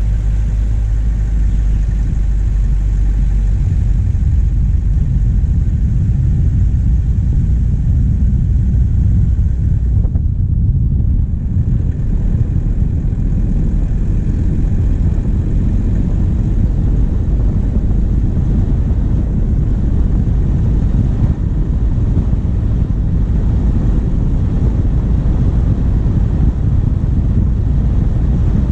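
Diesel engine of a vehicle on the move, a steady low rumble heard from a microphone on the bonnet.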